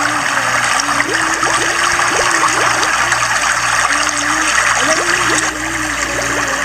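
River water churning steadily in a whirlpool, a continuous rushing and gurgling.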